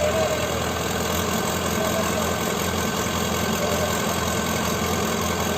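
Tractor diesel engine running steadily at low speed.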